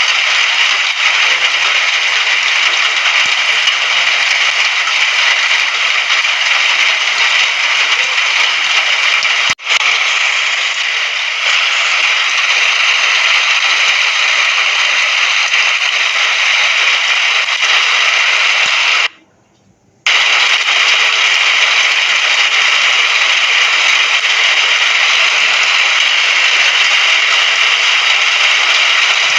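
Steady, dense rain hiss. It drops out for an instant about a third of the way in and cuts out for nearly a second about two-thirds through before resuming.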